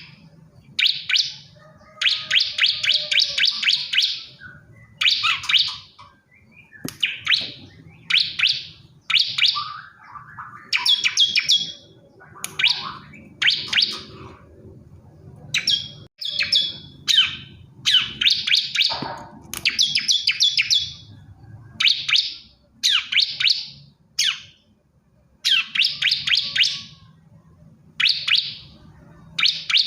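Male bar-winged prinia (ciblek kristal) singing: phrase after phrase of rapid, high, buzzy chirps, each phrase under two seconds, repeated with short pauses, as the male calls to a female.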